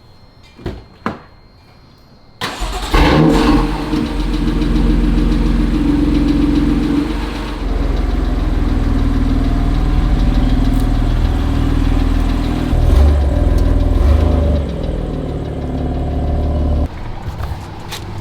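A car engine starting: after a couple of clicks it catches suddenly about two and a half seconds in, then runs loudly and steadily with some changes in level. The sound drops away sharply near the end.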